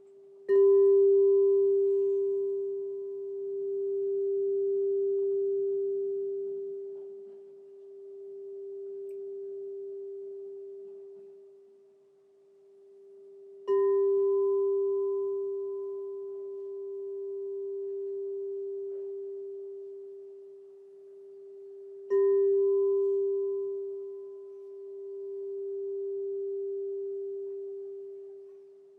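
Crystal singing bowl struck three times, each strike ringing out as one long, clear, steady tone with a fainter higher overtone that fades first. The loudness swells and ebbs slowly while it rings.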